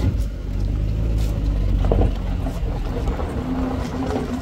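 Safari jeep's engine running steadily with a low hum, just after being started. A second, higher steady hum joins about three seconds in.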